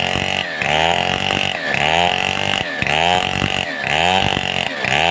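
Stihl 070 two-stroke chainsaw running hard, its engine pitch dipping and climbing back about once a second in a steady cycle.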